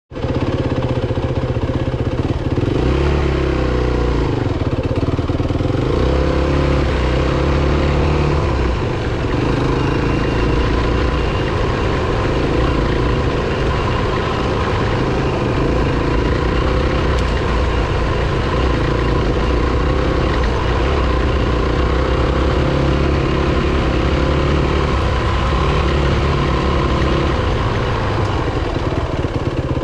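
Single-cylinder four-stroke dirt bike engine running under way, its note rising and falling as the throttle opens and closes.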